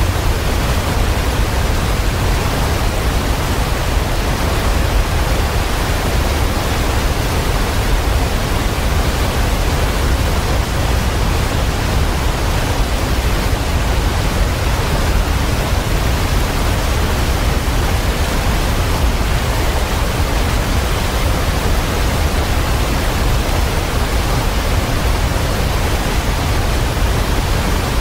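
Waterfall pouring: a steady, unbroken rush of falling water with a deep low rumble.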